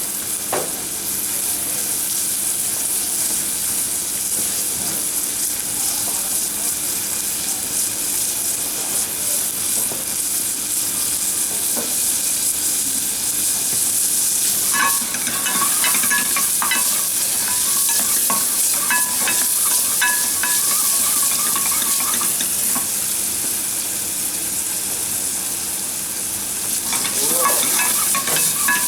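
Onions sweating in hot oil in a pan, sizzling steadily.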